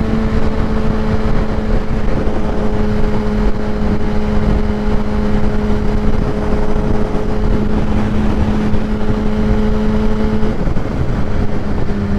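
Kawasaki ZX-10R's inline-four with a Graves race exhaust, holding a steady engine note at cruising speed under heavy wind rush. The note breaks off about ten seconds in and comes back slightly lower near the end.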